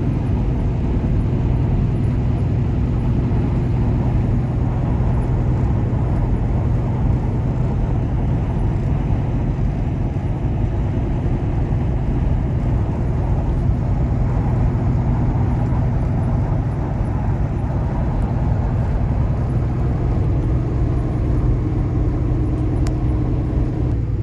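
Kenworth T680 semi truck's diesel engine running steadily at cruise, with a constant drone of tyre and road noise.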